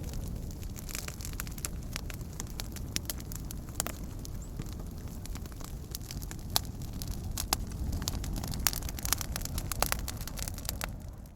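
Wood fire crackling, with a steady low rumble and many sharp pops, coming thickest about two thirds of the way through. The sound fades out at the very end.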